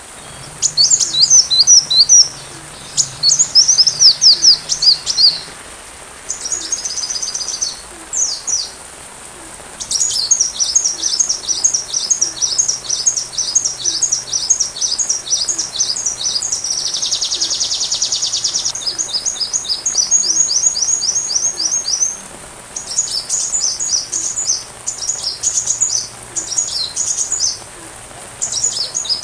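Sunbird ('kolibri') song: fast runs of high, thin chirps in phrases a few seconds long with short pauses, and one buzzier rattle about halfway through. A faint steady hiss lies under the song.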